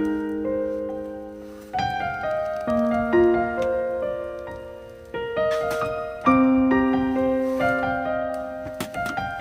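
Background piano music: gentle struck notes and chords that ring and fade.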